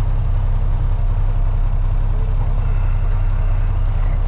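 Freightliner FLD truck's diesel engine running steadily, a deep, even rumble heard from inside the cab.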